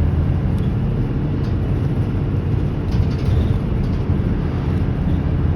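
Steady low rumble of a bus's engine and tyres on the road, heard from inside the cabin while it drives, with a few faint clicks.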